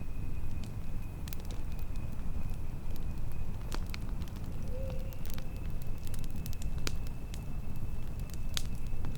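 Campfire crackling: a steady low rumble of burning wood with scattered sharp pops and snaps, and a faint steady high tone behind it.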